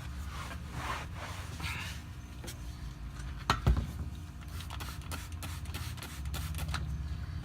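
A towel rubbing and scrubbing at the rear differential housing around the drain plug, wiping off grime with degreaser, with a couple of sharp knocks about halfway through over a steady low hum.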